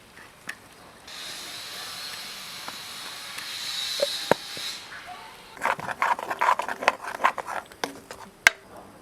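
A cooking hiss of chicken masala frying in the pan for about three and a half seconds, then a quick run of clattering knocks and clinks of a utensil working the pan, with one sharp click near the end.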